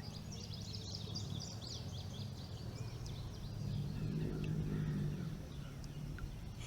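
Birds chirping and calling over a low outdoor rumble, busiest in the first few seconds, with a faint low murmur swelling about four seconds in.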